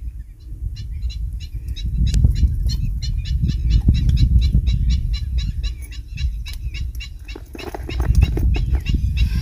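A bird calling in a rapid series of short, high chirps, about five a second, over a loud low rumble.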